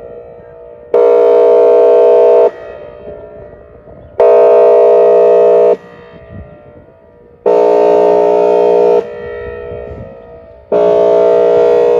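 Outdoor tornado warning siren sounding its airhorn signal: four loud, steady, chord-like horn blasts, each about a second and a half long and about three seconds apart. Each blast cuts off sharply and leaves a fading echo.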